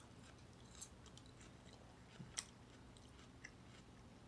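Faint close-up chewing of a mouthful of canned beef chow mein, with small wet mouth clicks and one sharper click a little past halfway.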